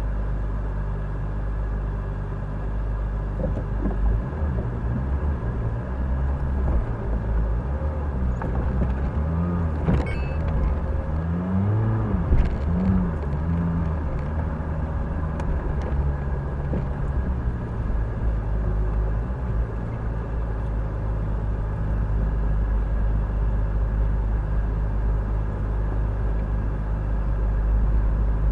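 Off-road vehicle driving over a rough forest trail: steady low engine and drivetrain rumble, with the engine rising and falling in pitch several times and a few knocks about ten seconds in.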